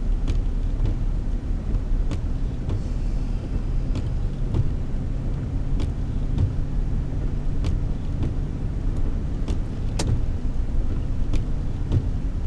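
Steady low engine and road drone inside a moving car, with scattered light ticks at irregular intervals and a sharper click near the end.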